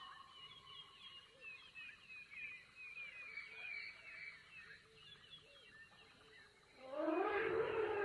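Faint birds chirping: many short, high chirps in quick succession. About seven seconds in, a louder, lower drawn-out sound with sliding pitch swells in.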